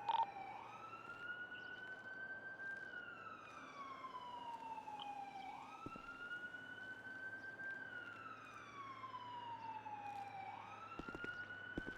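Police siren in a slow wail, faint: the tone rises quickly, holds, then slides slowly down, about once every five seconds, three times over.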